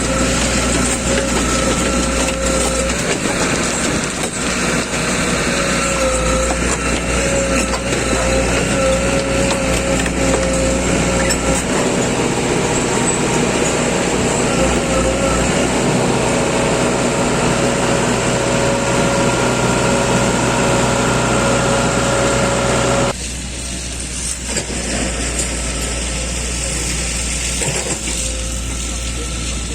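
Heavy engine-driven machinery running steadily with a whining tone over dense mechanical noise, dropping sharply in level about three quarters of the way through.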